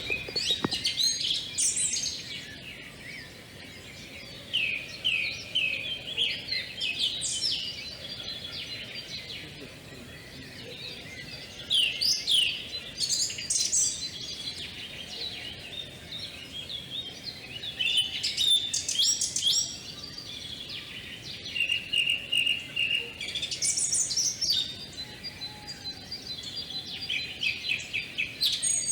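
Songbirds singing: phrases of quick, high chirps and trills, repeated every few seconds over a faint outdoor background.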